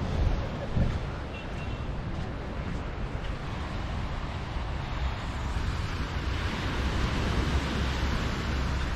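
Ocean surf washing on the shore, with wind buffeting the microphone in low rumbles; the wash swells louder in the second half.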